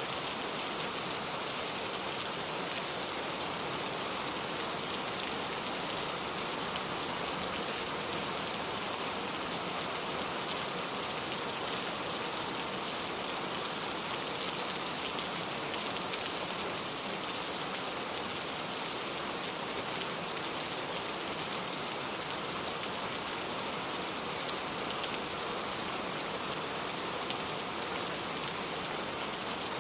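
Heavy rain pouring steadily, a dense even hiss of drops with no let-up.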